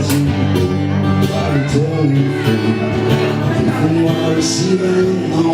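Live band playing an instrumental passage with guitar and bass, no singing.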